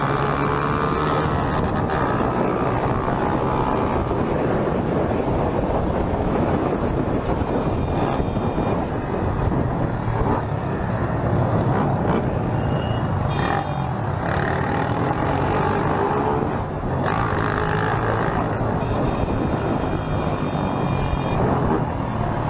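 Motorcycle engine running at speed under heavy wind and road noise, steady throughout, with faint high tones coming and going now and then.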